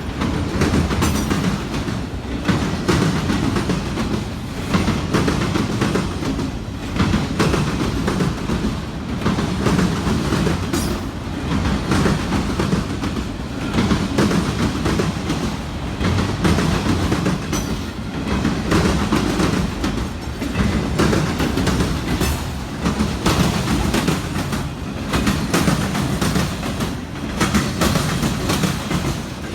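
Freight train rolling steadily past, its wheels clicking and clattering over the rail joints.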